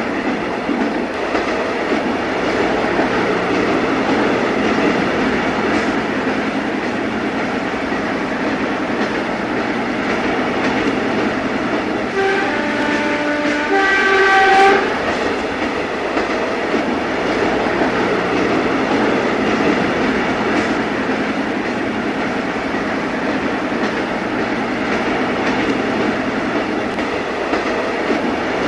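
Train running on rails with a steady clattering rumble. About halfway through, a multi-note train whistle sounds in two short blasts.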